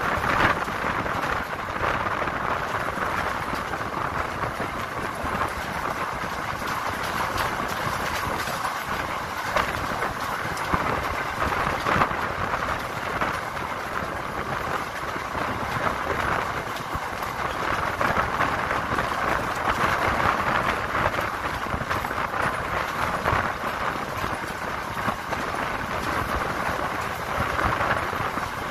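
Train running along the track: a steady rumble and rattle of wheels on rails, with scattered clicks and knocks.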